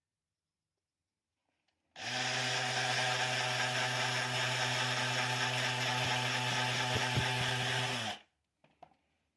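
A handheld power tool, such as a drill or sander, working wood: it starts about two seconds in, runs at a steady speed for about six seconds, then stops suddenly. A couple of faint clicks follow.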